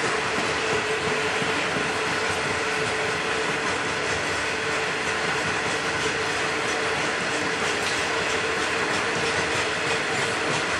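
A long train of coal hopper wagons rolling steadily past, the wheels clicking over rail joints, more distinctly in the last few seconds, with a steady whine over the rumble.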